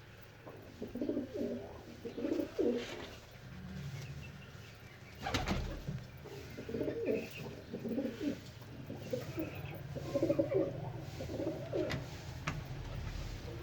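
Domestic fancy pigeons cooing in repeated bouts of low throaty coos over a steady low hum, with a sharp knock about five seconds in.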